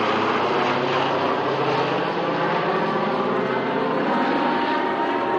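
B-17 Flying Fortress bomber flying past, its four Wright Cyclone radial piston engines giving a steady, loud drone.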